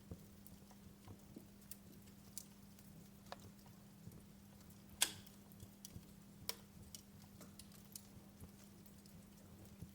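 Wood fire crackling: irregular sharp pops and snaps, the loudest about halfway through, over a faint steady low hum.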